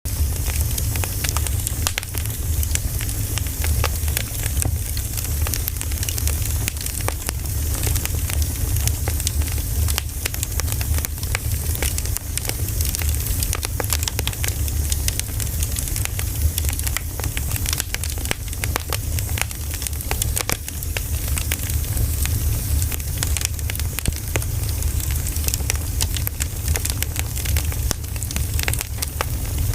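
Firewood fire burning, with frequent irregular crackles and pops over a steady low rumble.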